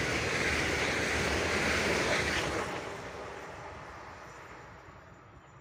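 Blue electric multiple unit passing at speed, its wheels running on the rails with a rushing noise that stays loud for about two and a half seconds, then fades as the train draws away.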